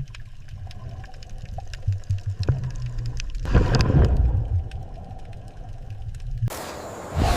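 Underwater ambience: a low rumble with scattered faint clicks and a swell of water noise about halfway through, switching suddenly to a brighter hiss near the end.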